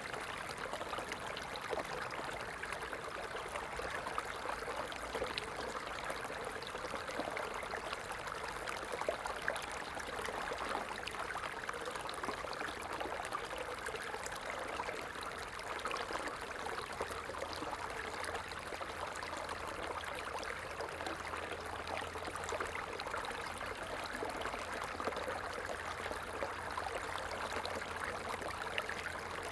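A stream flowing steadily: an even, unbroken rush of running water with fine splashing throughout.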